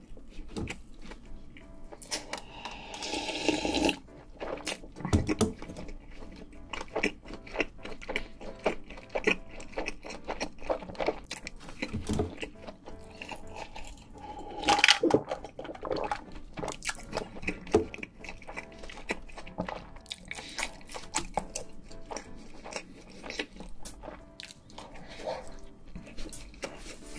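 Close-miked chewing and crunching of a cheeseburger and fries, with mouth clicks throughout. About 15 s in there are louder gulps of cola drunk from a glass.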